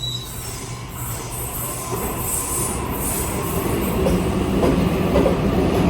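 Sydney Trains electric suburban train pulling into the station, its rumble growing steadily louder, with high-pitched wheel squeal about two seconds in.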